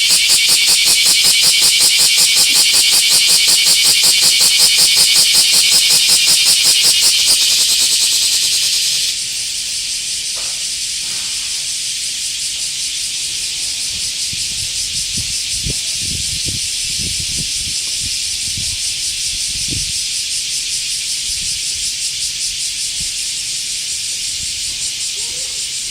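Cicada calling close by with a loud, rapidly pulsing high buzz that drops off abruptly about nine seconds in, leaving a steadier, quieter cicada drone. A few faint low thumps come in the middle.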